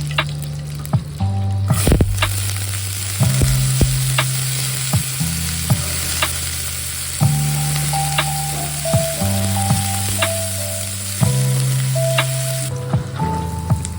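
Food frying in hot oil, a steady sizzle that starts about two seconds in and stops shortly before the end, with the clicks and scrapes of a utensil stirring in the pan. Soft background music plays throughout.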